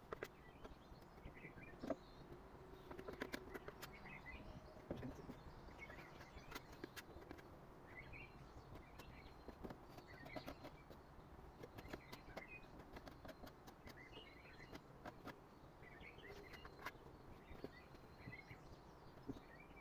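Faint bird chirps over low background noise, with scattered light clicks.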